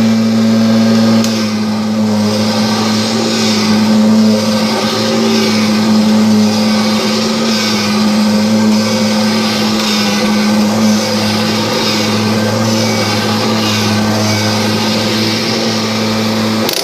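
Kirby G5 upright vacuum cleaner running at full speed with a steady drone and rushing air. It is switched off at the very end, and the pitch starts to fall as the motor winds down.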